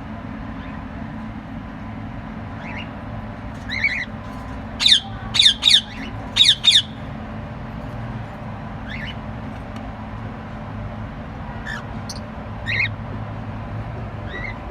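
Lovebirds giving short, sharp squawks: a burst of five loud calls in quick succession about five to seven seconds in, with scattered fainter calls before and after, over a steady low hum.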